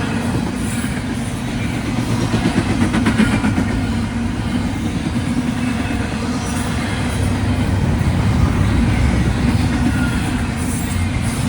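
BNSF double-stack container train rolling past close by: a steady loud rumble of steel wheels on rail, with a run of clicking wheel beats about three seconds in.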